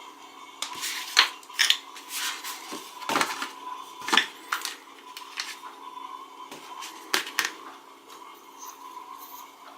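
Small hard plastic toys and packaging being handled: a series of irregular clicks and taps, several of them sharp, over a faint steady hum.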